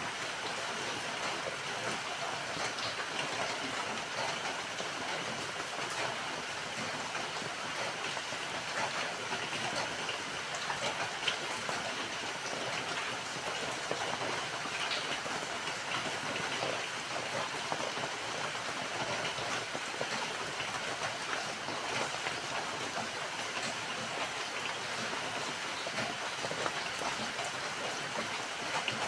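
Steady rainfall, an even hiss with scattered faint drop ticks.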